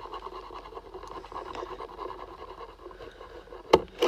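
Red paint pen rubbing over a small logo badge: a soft, steady scratching, with one sharp tap near the end.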